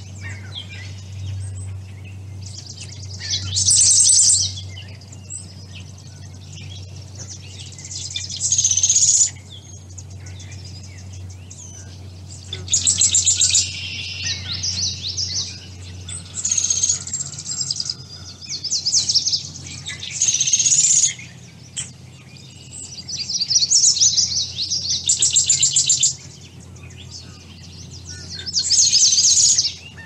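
Songbirds singing: about eight rapid, trilled song phrases, each a second or two long, come every few seconds over a steady low hum.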